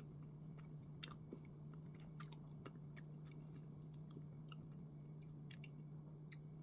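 Faint chewing of bread filled with black sesame paste, with small mouth clicks scattered throughout over a low steady hum.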